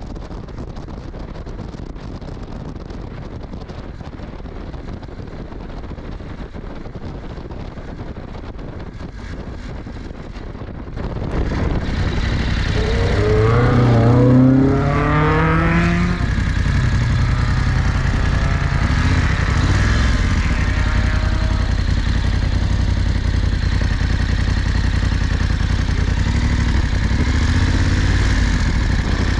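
Motorcycle engine running under way, steady at first; about eleven seconds in it grows louder and revs up, rising in pitch over a few seconds, then settles into a steady drone.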